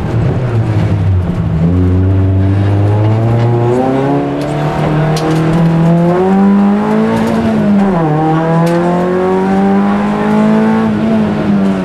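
Rally car engine heard from inside the cabin, pulling hard on a special stage: its note climbs steadily for several seconds, dips briefly about eight seconds in, then climbs again and falls away near the end.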